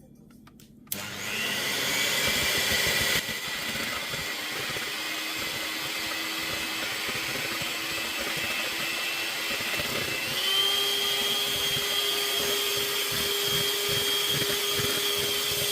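Electric mixer whipping cold heavy cream with powdered sugar, its motor starting with a steady whine about a second in. The pitch steps up about two-thirds of the way through, and the motor stops at the end as the cream reaches firm peaks.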